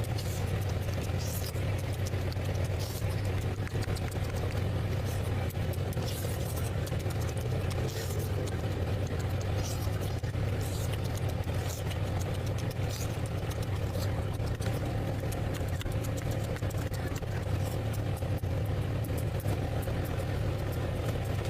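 A steady low hum throughout, with scattered short faint clicks over it, in keeping with close-miked chewing and eating mouth sounds.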